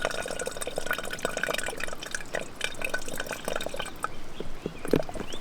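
Filtered water running from a Katadyn BeFree filter on a squeezed Hydrapak water bag into a bottle, splashing and trickling steadily as the bottle fills.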